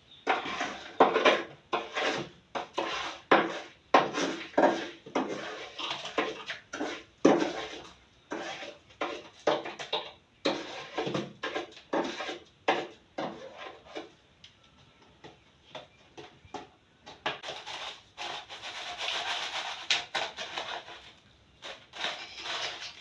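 A knife chipping and scraping built-up ice out of a fridge's freezer compartment: irregular knocks and scrapes, a short pause past the middle, then a longer stretch of continuous scraping.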